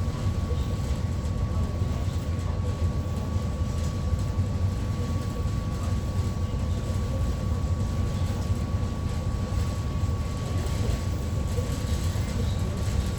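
Fast ferry's engines running: a steady low rumble with a faint, constant high tone over it.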